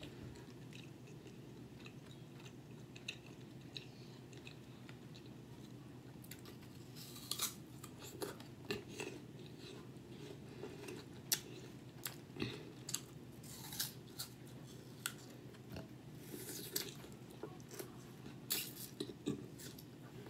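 Close-miked chewing and crunching of crisp apple slices, with wet mouth sounds. The crunches come thick and fast from about seven seconds in, over a steady low hum.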